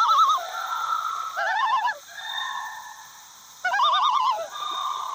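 Loon tremolo call: rapid quavering, wavering phrases repeating about every two seconds, with a steadier held note between them.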